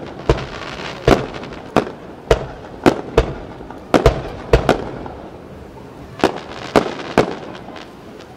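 Aerial firework shells bursting in quick succession: about a dozen sharp booms, each with an echoing tail. There is a lull of about a second past the middle, then three more bursts.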